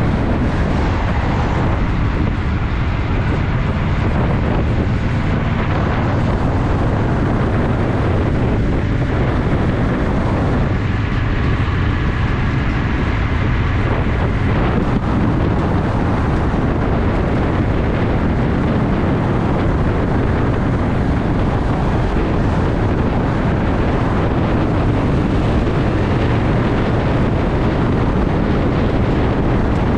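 Honda Shadow VT750's V-twin engine running while the motorcycle rides along, with wind rushing over the microphone.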